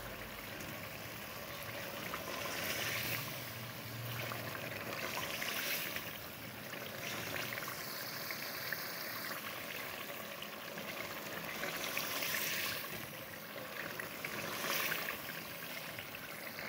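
Chicken frying in oil and tomato masala in an aluminium pot at the bhuna (browning) stage: a steady sizzle and crackle that swells every few seconds as it is turned with a wooden spatula.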